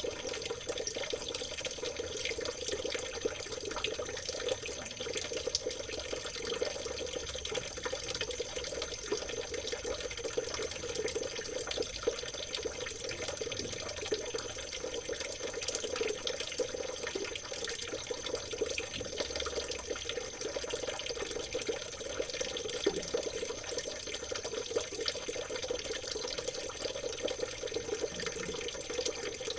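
River water trickling and gurgling steadily, with a thin, steady high tone underneath.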